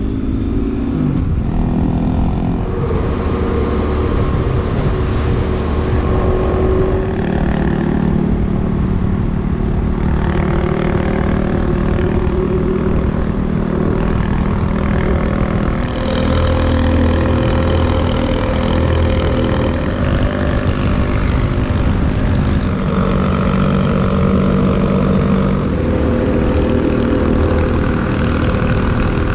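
Motorcycle engine running under way, a loud steady note whose pitch shifts several times.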